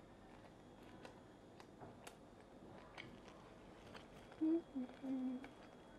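Close-up mouth sounds of someone chewing fried fish balls, with faint soft clicks. About four and a half seconds in, a few short hummed "mm" sounds.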